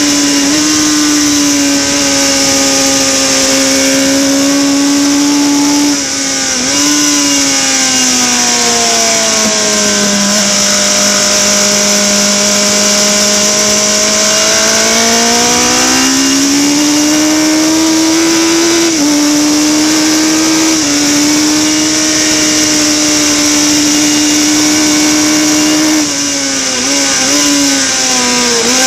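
Harris Yamaha racing motorcycle engine heard onboard at race speed, its note sagging slowly through a long bend and climbing again as the throttle opens, with a few short steps in pitch at gear changes. Near the end the revs fall away as it slows, over a steady high hiss of wind rush.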